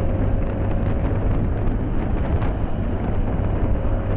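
BMW K1200S inline-four engine running steadily while riding, under a steady rush of wind noise on a microphone inside the rider's helmet.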